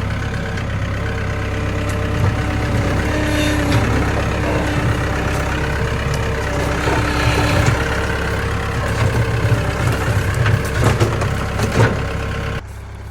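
A vehicle engine running steadily while the sawmill is pushed off its trailer, with held metallic tones and several sharp clunks late on, all of it "a lot of bad noise". The engine sound stops abruptly shortly before the end.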